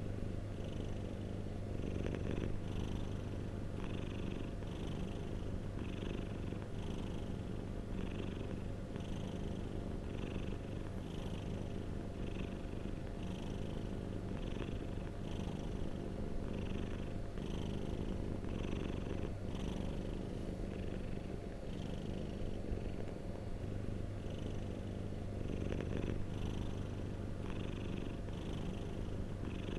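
Domestic cat purring steadily, with a regular pulse repeating about once or twice a second.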